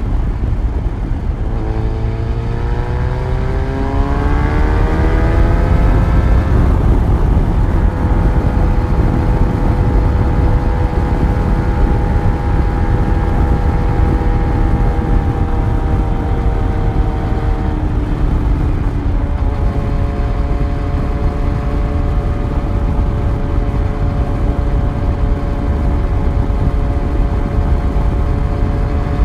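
Yamaha FZ1's inline-four engine under way: the pitch climbs as it accelerates for a few seconds, then holds a nearly steady cruise. About eighteen seconds in it dips briefly and settles to a steady note again. A heavy low wind rumble runs beneath it.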